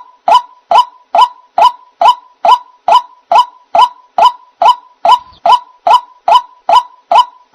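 White-breasted waterhen (ruak-ruak) call played as a bird-trapping lure: one short note repeated evenly about twice a second, with a faint steady tone underneath.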